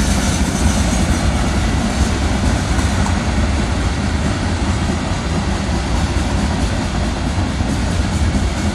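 A BNSF manifest freight train's cars rolling slowly past, a steady deep rumble of steel wheels on the rails.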